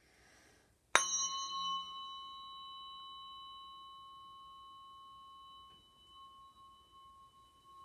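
A tuning fork is struck once about a second in: a sharp strike, then a clear high ring of several tones that slowly fades over the following seconds. This is the ringing used in Biofield Tuning sound healing.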